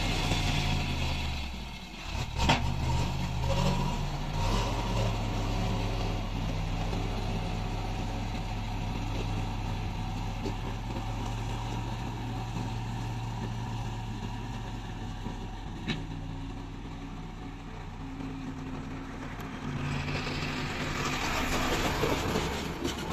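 Diesel engine of heavy road-building machinery running steadily, its pitch shifting a few seconds in. A sharp knock comes about two and a half seconds in and a lighter one later, and a rushing hiss rises near the end.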